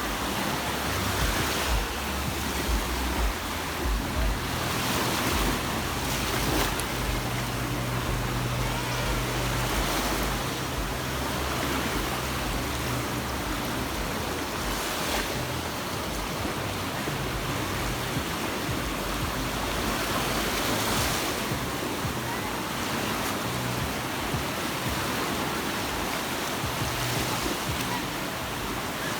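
Sea surf: waves breaking and washing up the beach, swelling every few seconds, with a steady low hum underneath.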